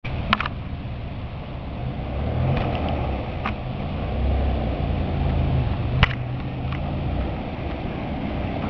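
Motor vehicle engine running while driving, a steady low rumble whose pitch shifts slightly, with a few sharp clicks or knocks, the loudest about six seconds in.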